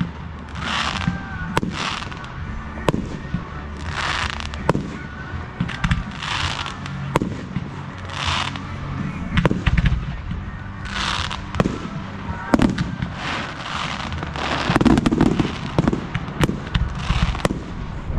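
Display fireworks going off in a continuous sequence: a hissing burst about every one and a half to two seconds, with sharp bangs in between.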